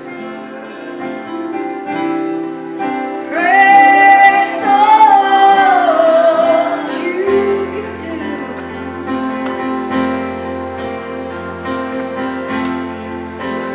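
Gospel song: a woman's voice holds a long, loud note that bends in pitch over sustained instrumental chords, and a low bass note comes in about halfway through.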